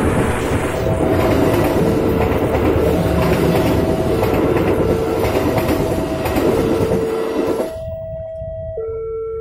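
Passenger train hauled by a diesel locomotive rumbling and clattering over a level crossing, with its sound cutting off suddenly about three-quarters of the way through. The crossing's warning alarm sounds throughout, alternating between two pitches about once a second, and is heard clearly after the train has gone.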